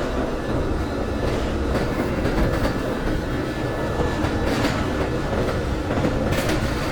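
Inside a moving commuter train car: a steady low running rumble with a few brief wheel clicks over the rails.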